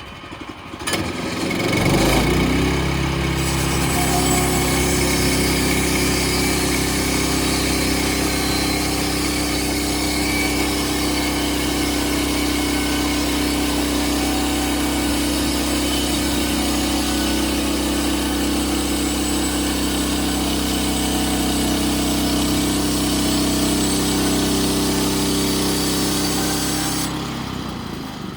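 Bushlander HM122 band sawmill's engine throttling up about two seconds in, then running steadily at high revs while the band blade cuts along a log. It drops away near the end.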